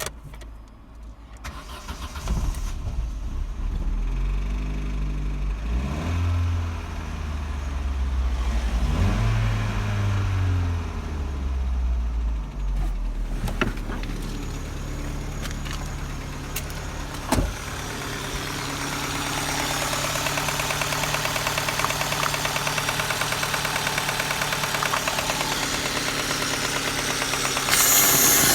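Opel Astra H's 1.6-litre Z16XEP four-cylinder petrol engine running, its speed rising and falling twice in the first half, then idling steadily. A fast, even ticking clatter grows louder from about two-thirds of the way in, and the sound turns louder and brighter just before the end.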